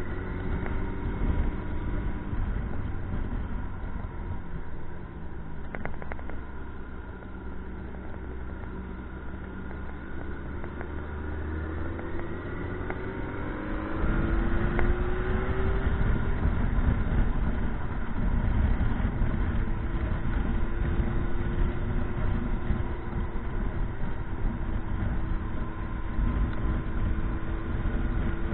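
Motorcycle engine running on the move, with a low rumble underneath. About halfway through, the engine pitch rises as it speeds up and the rumble grows louder, then the engine keeps a steady drone with a slow rise near the end.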